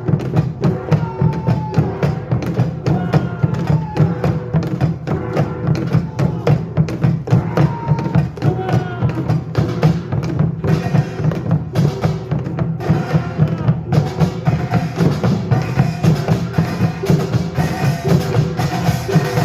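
Korean pungmul percussion ensemble playing a driving, evenly repeating rhythm of drum and gong strikes.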